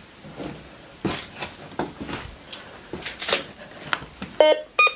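Scattered scrapes and knocks of digging and handling debris, then near the end a metal detector beeps twice, a short pitched tone signalling a target in the ground.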